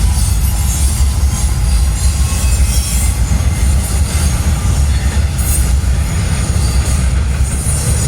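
Norfolk Southern intermodal freight train rolling past close by: a loud, steady rumble of cars and wheels on the rails, with a faint high squeal of wheels.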